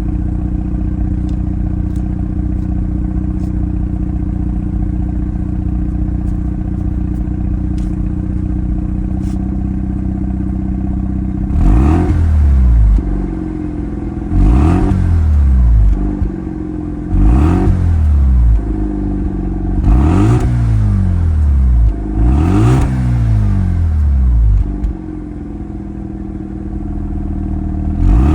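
Mazda RX-7 (FD3S) twin-turbo 13B-REW two-rotor rotary engine through its stock muffler, idling steadily. About halfway through it is revved in five short blips a few seconds apart, each rising and falling back to idle, and another blip starts right at the end.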